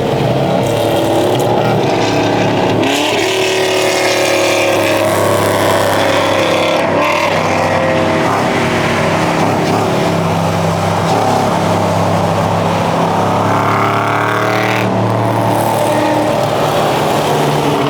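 Car engine running under load, its pitch rising and falling repeatedly as it revs and accelerates.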